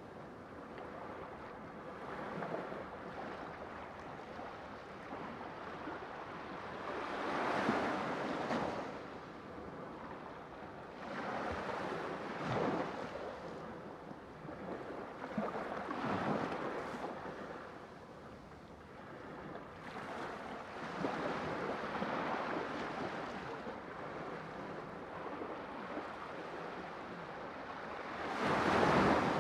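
Sea waves washing in, a steady rush that swells into a louder surge every few seconds, with the biggest surge near the end.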